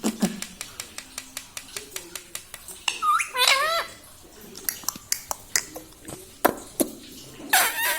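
Indian ringneck parrot giving short, squeaky, arching calls about three seconds in and again near the end, among a run of sharp rapid clicks, about four or five a second.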